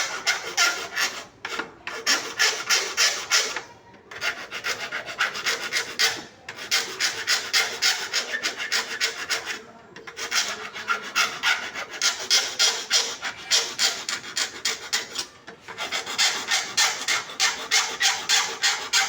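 Wood being worked by hand with quick back-and-forth strokes, about four a second, in runs of a few seconds with short pauses between them, as a wooden shelf is repaired.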